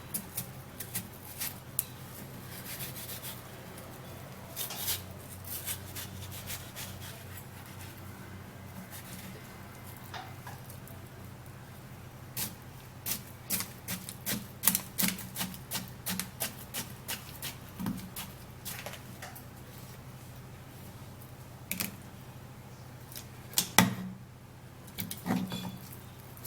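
Irregular clicks and taps from kitchen work as watermelon is prepared for the blender. There is a quick run of taps about halfway through and a loud knock near the end, over a steady low hum.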